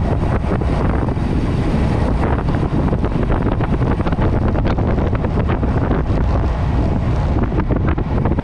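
Heavy wind buffeting on the microphone of a camera riding along on a moving road bike: a dense, steady low rumble with irregular crackles.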